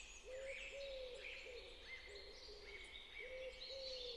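Faint, overlapping bird calls: short low calls repeated at about one pitch, with many higher chirping calls over them.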